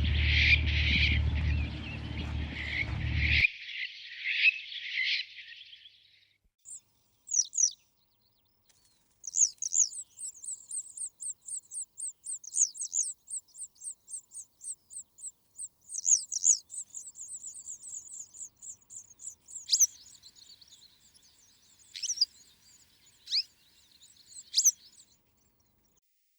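Birds singing and chirping: a dense chorus over a low steady hum that cuts off suddenly a few seconds in, then after a short lull a long run of high, thin chirps at about three a second, followed by scattered calls.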